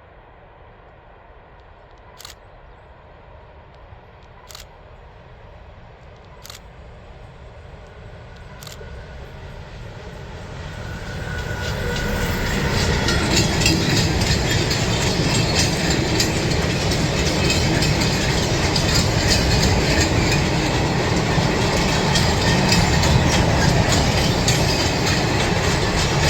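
A train approaching and then passing close by. It grows louder over about ten seconds, then runs loud and steady with a dense clatter of wheels on the rails. Four sharp clicks, about two seconds apart, sound early on while it is still faint.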